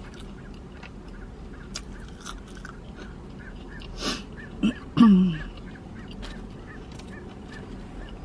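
Chewing and mouth sounds of someone eating a fried chicken sandwich, with a short low sound falling in pitch about five seconds in, the loudest moment.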